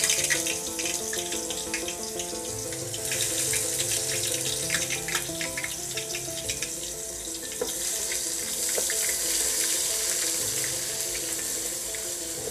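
Wet ground onion, ginger and garlic paste sizzling and crackling in hot oil in an aluminium pot, the hiss swelling and easing as the moisture cooks off. Background music plays throughout.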